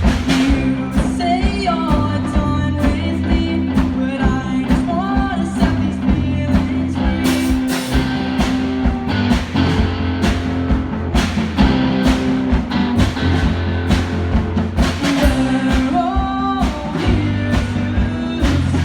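A live rock band playing a song, with a singer's melody over a steady beat of regular hits and sustained low notes.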